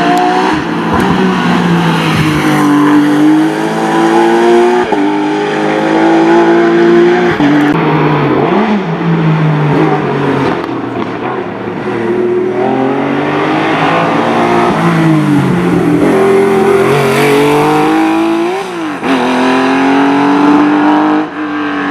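Porsche race car engine at full throttle, climbing through the gears: the pitch rises and falls back sharply at each upshift, over and over, with a couple of quick downshift blips in between.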